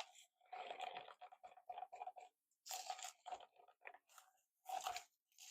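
A stir stick scraping around the sides and bottom of a plastic cup as epoxy resin is mixed with colour, in faint, irregular strokes.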